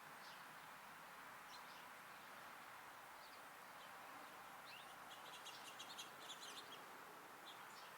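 Small songbirds at a backyard feeder chirping faintly: a few scattered single chirps, then a quick run of about ten high chirps around five to six seconds in. A steady hiss of outdoor background noise lies under them.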